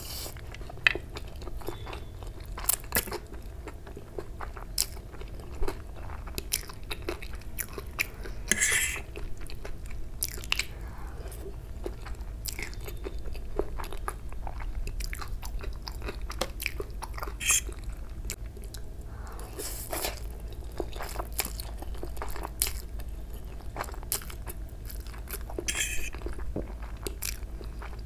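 Close-miked chewing of fried Maggi instant noodles, with many small wet mouth clicks. There are a couple of short hissing slurps as strands are sucked in, about a third of the way in and near the end.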